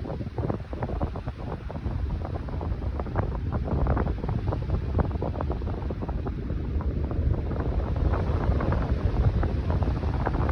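Wind buffeting the microphone in flight under a paraglider: a continuous low noise with rapid, irregular crackling gusts.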